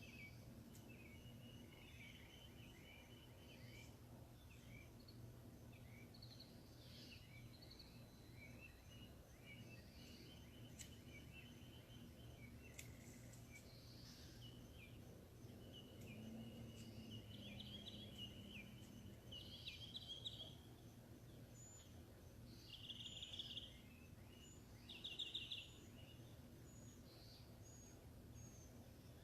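Faint birdsong: several birds chirping and calling, with a few louder buzzy trills in the second half, over a steady low hum.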